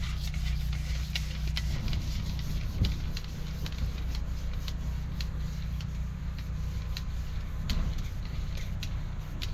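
High-pressure drain jetter running steadily while it cuts roots in a sewer pipe, with a steady engine hum under many irregular sharp clicks and ticks.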